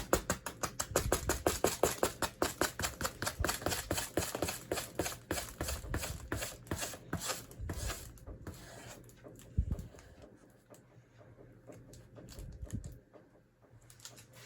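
2009 Hunter Avignon hugger ceiling fan coasting down after being switched off, with a regular ticking that slows and fades as the blades lose speed.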